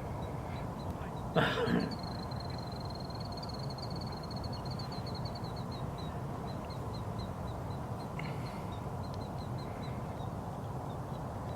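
A bird gives one loud harsh call about a second and a half in, with a fainter harsh call later, over a rapid string of thin high repeated notes and a steady outdoor background hum.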